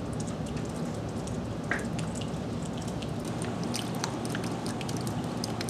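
Heavy tropical-storm rain falling steadily, with many separate drops dripping and tapping close by, heard from indoors at a screened window.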